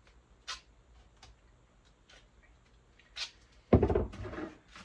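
Handling noise as a bucket toilet is assembled from a 5-gallon bucket, trash bag and duct tape: a few light clicks and taps, then near the end a loud rough crackling scrape about a second long.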